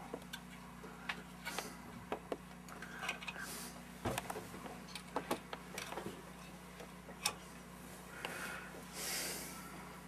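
Scattered light clicks and taps of test leads and tools being handled on a workbench, with a few short rustling swishes, over a steady low hum.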